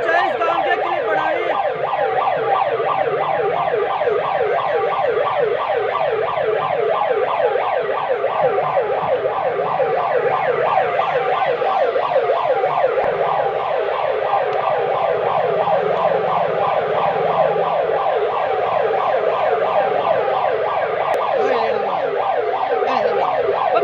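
A siren wailing continuously in a fast yelp, its pitch sweeping up and down several times a second.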